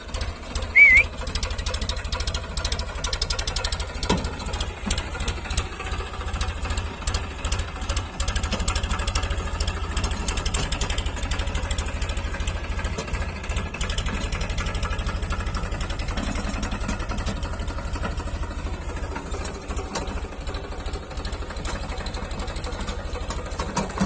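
JCB 3DX backhoe loader's diesel engine running steadily with a rapid low throb, and a brief sharp sound about a second in.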